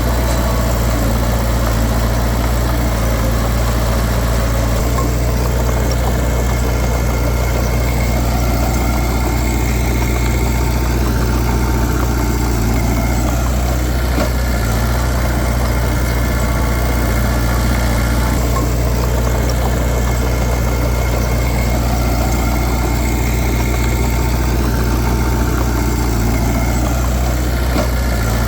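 Diesel engine of a Komatsu D31P crawler bulldozer running steadily, its note swelling and easing slowly twice as the load changes.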